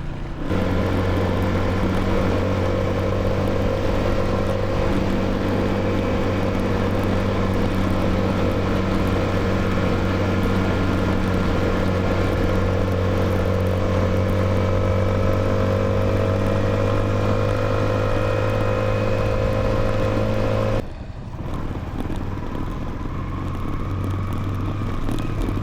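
Motorcycle engine running under way, its pitch rising slowly and steadily, before it drops abruptly to a quieter engine sound about 21 seconds in.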